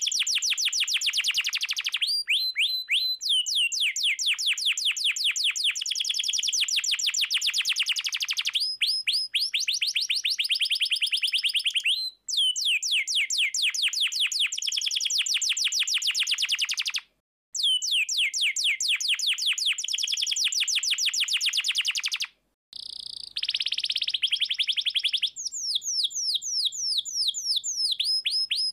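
Domestic canary singing long, fast rolling trills of rapidly repeated high notes. The phrases are broken by short pauses every four to six seconds, and each phrase opens with a few downward-sweeping notes.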